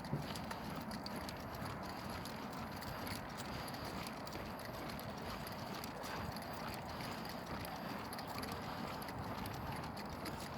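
Footsteps on pavement during a walk: a run of light, irregular clicks over a steady background hiss.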